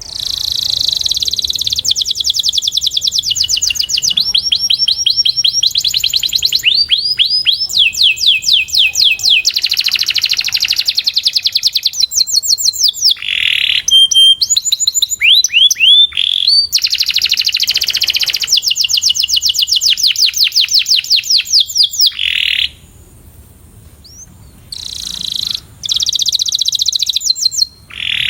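Domestic canary singing a long song built of rapid trills and rolls of repeated high notes, switching from one trill to another every second or two, with a brief pause about two-thirds of the way through before it starts again.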